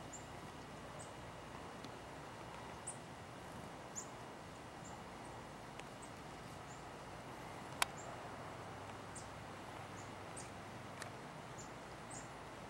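Small songbirds giving short, high-pitched chirps, scattered singly every second or so over a faint steady outdoor background, with one sharp click about eight seconds in.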